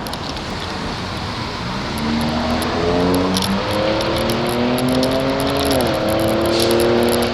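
A motor vehicle's engine accelerating close by, its pitch climbing, dropping once at a gear change about six seconds in, then climbing again. Steady wind and road rumble run underneath.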